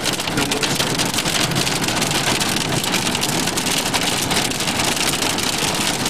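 Rain drumming on the roof and windshield of a moving car, heard from inside the cabin as a dense, steady patter of small hits over the car's road noise.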